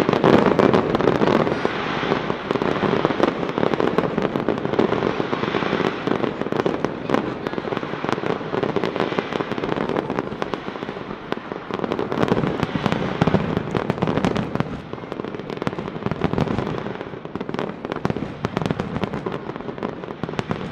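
Dense, continuous crackling and popping: many sharp cracks in rapid succession over a steady noisy roar, loudest in the first few seconds and easing somewhat near the end.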